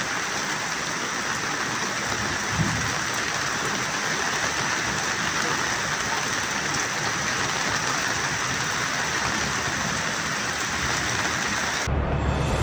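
Heavy rain pouring steadily, a dense even hiss. Near the end it cuts off abruptly and electronic music starts.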